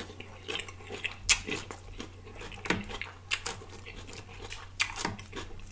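Close-miked chewing of crisp lettuce salad: irregular wet crunches and mouth smacks, several a second.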